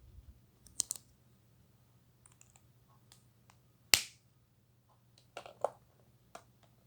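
Sharp plastic clicks of alcohol marker caps being snapped off and on and markers being handled, a few scattered clicks with the loudest single snap about four seconds in and a small cluster soon after.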